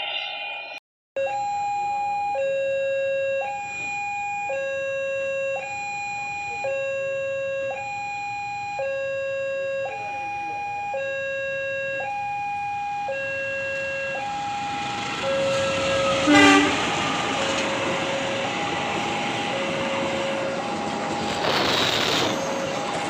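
Railway level-crossing alarm sounding a two-tone high-low warning, each tone held about two-thirds of a second, as a train approaches. From about 15 s in the train's rumble builds and drowns the alarm, with a short loud burst about 16 seconds in.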